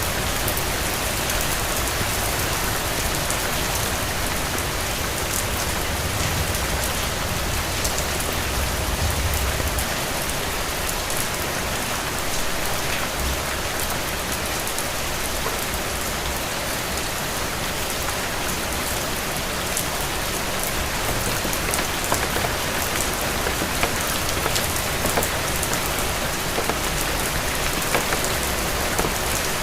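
Steady rain falling, with individual drops ticking over an even hiss and a low rumble underneath. A few louder drop hits come in the last third.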